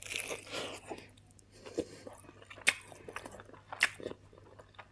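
A person eating close to the microphone: chewing and wet mouth sounds, with two sharp smacks about halfway through and again a second later.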